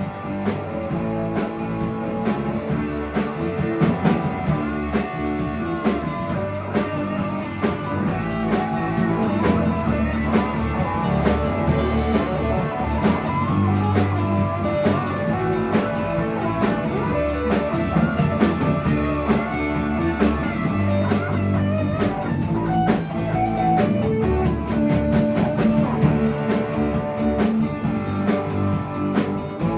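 Instrumental break of a rock band song: guitar playing over bass and a drum kit keeping a steady beat.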